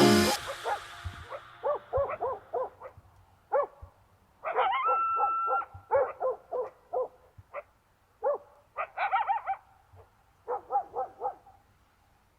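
Canine barking and yipping in short separate calls, some in quick runs of three or four, with a held high steady tone of about a second partway through.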